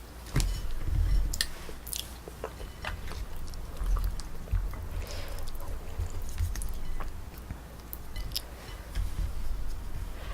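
Close-miked chewing and biting of Korean braised spicy chicken (dak-bokkeum-tang), with irregular wet mouth clicks and low thuds.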